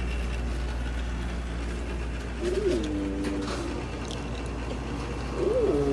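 Two short cooing calls, each rising, dropping and then held level for about a second, over a steady low hum.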